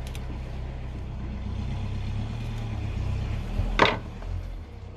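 Steady low hum of an idling engine, with one sharp knock about four seconds in.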